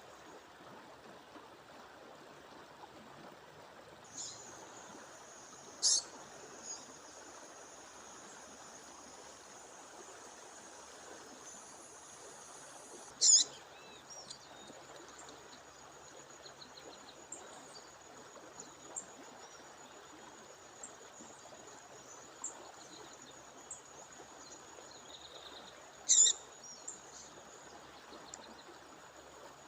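A female bird calling at a waterfall: three loud, very short, sharp high calls about 6, 13 and 26 seconds in, with a few fainter ones between, over the steady rush of falling water. A thin, steady, high-pitched tone runs behind from about 4 seconds in.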